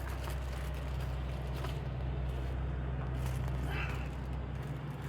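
Steady low droning hum, with a few faint clicks over it.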